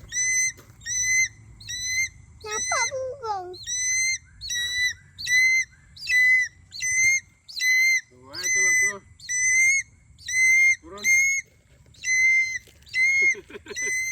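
A captive hawk-eagle calling over and over in short high whistles, about two a second, each rising slightly and then held: the whining of a spoiled bird wanting attention. Lower, falling cries break in three times.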